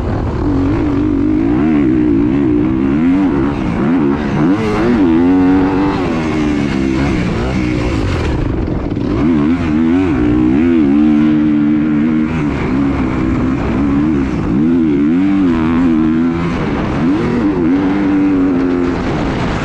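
An engine running with its pitch rising and falling again and again, under heavy wind rumble on the microphone.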